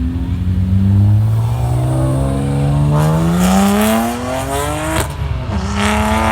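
Car engine accelerating hard, its pitch rising steadily for about four seconds, then breaking off sharply about five seconds in and running on at a steady pitch.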